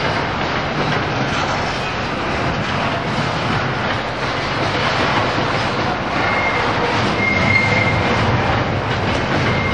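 Freight train's container wagons rolling past close by with steady wheel-on-rail noise. A thin, high wheel squeal comes and goes a few times in the second half.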